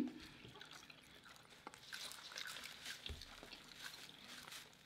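Faint wet chewing and small mouth clicks of people eating.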